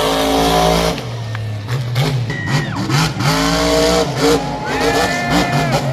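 Monster truck engine revving up and down repeatedly, loud over a dense arena noise. Long pitched tones rise over it in the first second and again in the second half.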